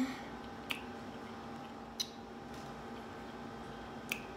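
Close-up mouth sounds of chewing a piece of smoked turkey kielbasa with lips closed: three short, wet clicks spread over a few seconds, over a faint steady room hum.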